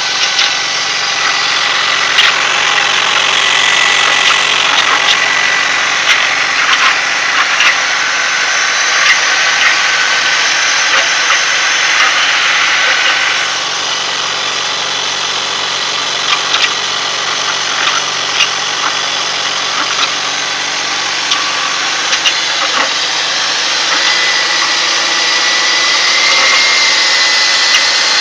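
2000 BMW 323Ci's straight-six engine running steadily, with a thin high whine and scattered sharp ticks over the engine noise. This is the weird noise that the owner wants identified.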